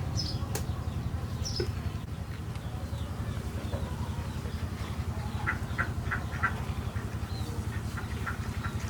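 Birds chirping, with a quick run of short calls about five and a half seconds in, over a steady low rumble.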